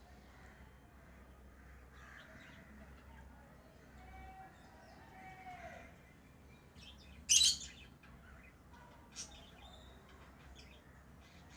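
Pet lovebirds chirping, mostly soft scattered calls, with one loud sharp chirp a little past halfway and a smaller one shortly after.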